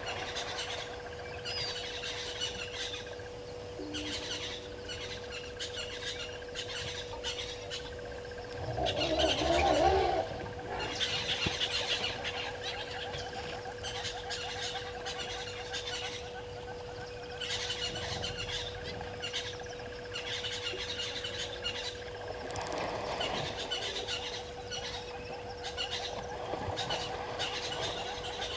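Many wild birds chirping and calling over a steady low hum. About nine seconds in, a louder, lower sound swells for a second or two.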